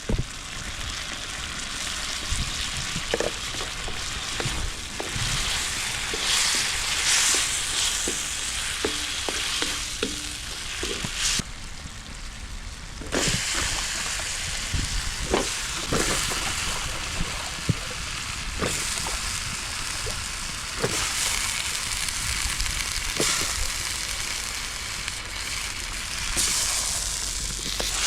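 Food frying and sizzling in a pan, with short knocks and scrapes of stirring. The sizzle drops away briefly near the middle.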